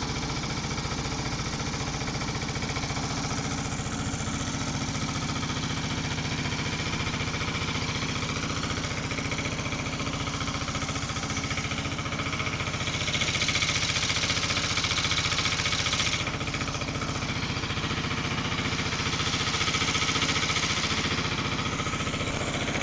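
A truck engine running steadily, with a hiss that swells over it twice, about a third and about two thirds of the way through.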